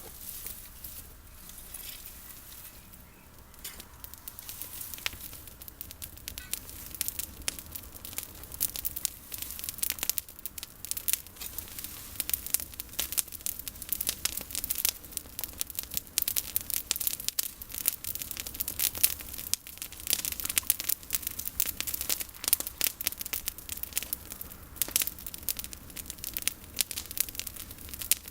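Campfire of pruned olive branches crackling, with many sharp pops that come thicker after the first few seconds.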